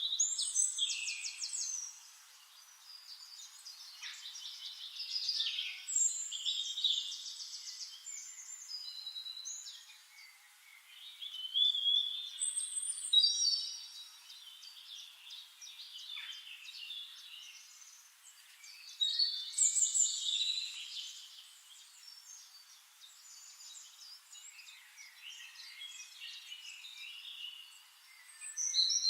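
Songbirds singing in bouts of rapid chirps, trills and whistled notes, a new phrase every several seconds, some phrases overlapping.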